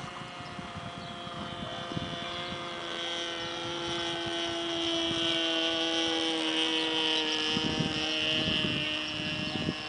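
Radio-controlled model plane's O.S. rotary (Wankel) glow engine running steadily in flight, growing louder through the middle as it passes and easing off near the end, its pitch dropping slightly. Wind buffets the microphone with low rumbles.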